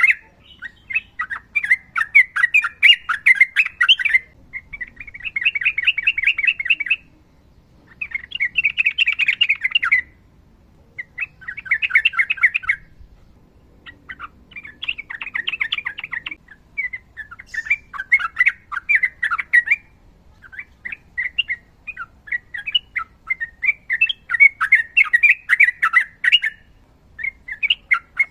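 Yellow-vented bulbul (trucukan) singing a long, rapid rolling song: bursts of quick chattering notes two to three seconds long, with short pauses between. Near the end the bursts run together with fewer pauses.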